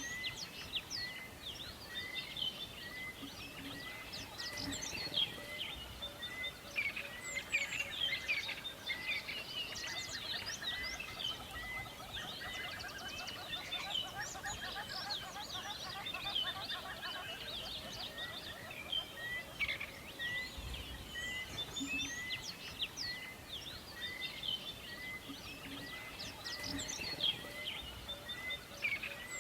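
Forest ambience of many birds chirping and singing at once, with a short high note repeating steadily, a little under twice a second, and a faint low rumble beneath.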